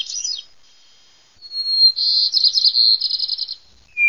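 A songbird singing: short whistled notes sliding up and down, a brief pause, then a long fast trill about a second and a half in.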